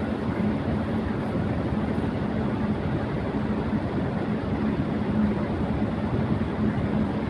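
Electric fan running at high speed: a steady rush of moving air with a constant low hum underneath.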